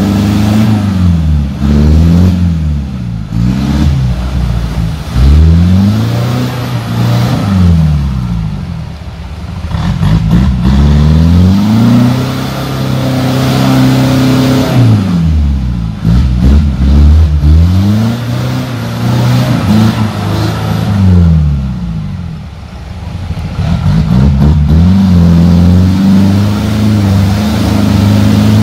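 Off-road 4x4's engine revving hard again and again, its pitch rising and falling every few seconds, as the vehicle struggles up a steep muddy rutted climb with its wheels working in the mud.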